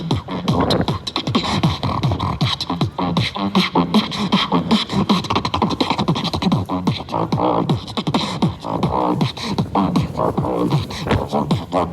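Solo beatboxing: a fast, unbroken vocal beat of mouth-made kicks and snares, with low bass tones that slide downward.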